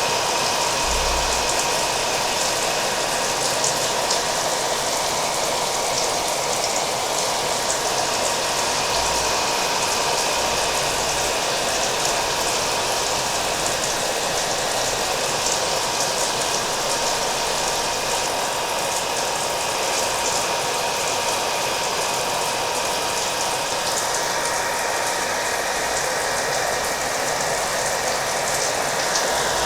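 Hair dryer running steadily with a faint motor whine, mixed with steady rain.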